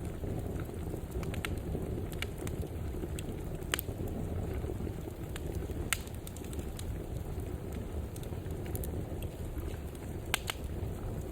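Wood fire burning in a fireplace: a steady low rumble of flames with sharp crackles and pops at irregular intervals, three of them louder, spread through.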